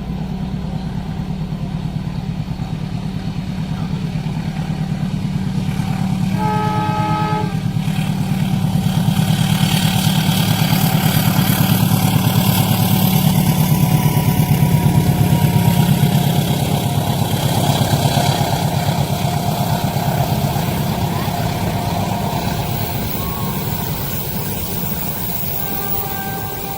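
Diesel-hauled train passing close by: one horn blast of about a second, about seven seconds in, then engine rumble and wheel-on-rail noise that build to a peak around the middle and slowly fade.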